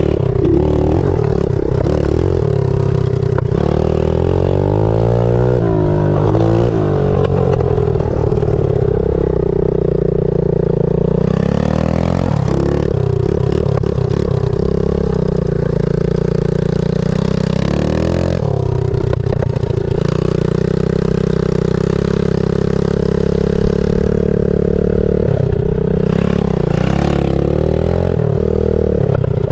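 Pit bike engine running hard while being ridden, its pitch rising and falling as the throttle is worked, with brief drops about twelve and eighteen seconds in.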